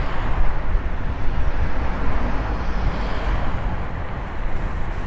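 Wind and road rumble while riding an e-bike: a steady, loud rushing noise, heaviest in the low end.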